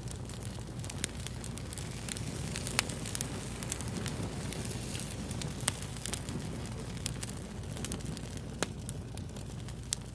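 Fire crackling, with frequent irregular sharp pops over a steady low rush.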